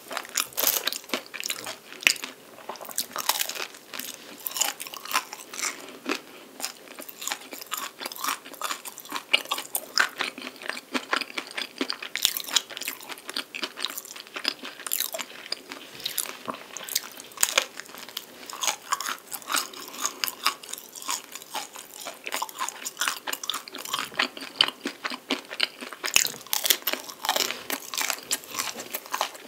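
Close-up mouth sounds of chewing crisp, flaky chocolate-coated puff pastry (palmier carré), a dense run of crackling crunches several times a second.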